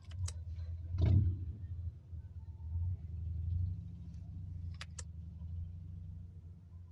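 Steady low rumble, like a car heard from inside, with a loud thump about a second in and sharp clicks near the start and again about five seconds in.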